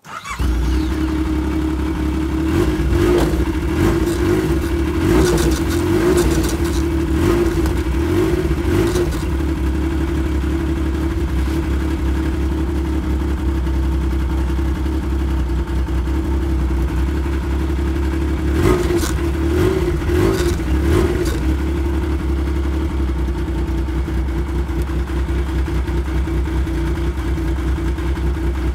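An engine running steadily at a constant speed, with a few short clattering knocks over it now and then.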